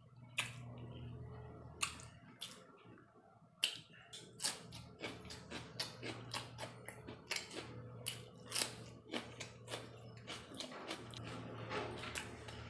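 Eating tandoori chicken close to the microphone: irregular wet clicks and smacks of biting and chewing, over a steady low hum.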